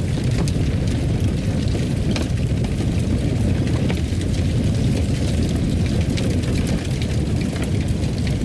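Fireplace fire burning with a steady low rumble and scattered small crackles and pops.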